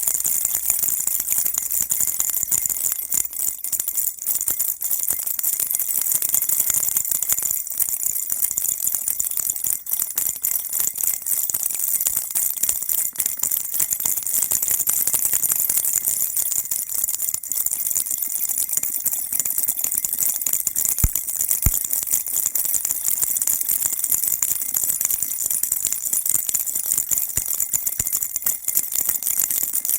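Baby rattle shaken steadily without a break, a dense, high-pitched jingling.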